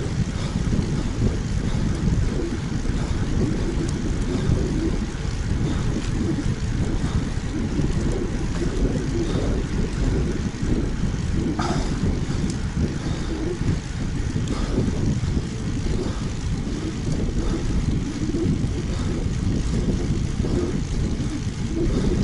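Wind buffeting the microphone of a bike-mounted action camera as a road bike rides at speed: a loud, gusty low rushing with no break.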